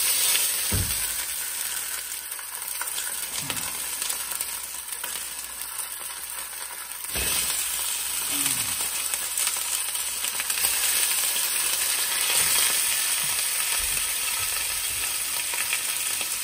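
Chicken thighs frying in hot oil in a pan: a steady sizzle that grows louder about seven seconds in, with a few dull knocks.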